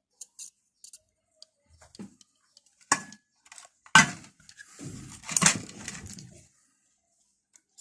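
Small metal tools being handled on a workbench: a sharp clink about three seconds in, a louder knock about a second later, then a brief clattering rattle.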